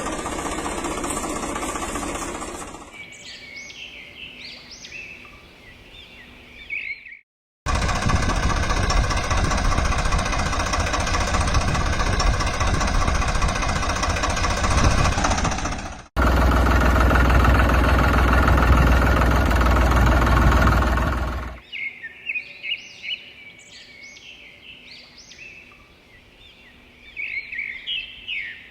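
An engine on heavy farm or loading machinery runs loudly in three separate stretches, cut off abruptly each time. Between them, birds chirp in short high calls.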